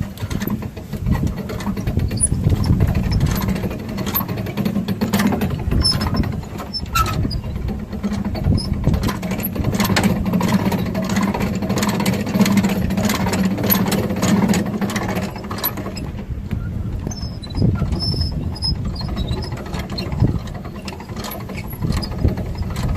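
A winch lowering a lawn tractor down off a truck bed: a steady hum with scattered clicks and rattles, the hum stopping about two-thirds of the way through.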